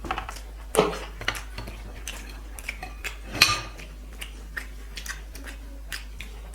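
Dishes and tableware clinking and knocking as a meal is eaten. There are scattered light clicks throughout, with two louder knocks: one just under a second in and one about three and a half seconds in.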